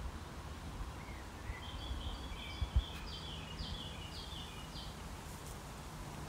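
A small songbird singing a run of short high chirps, starting about a second in and stopping about five seconds in, over a low outdoor rumble. A single brief knock comes near the middle.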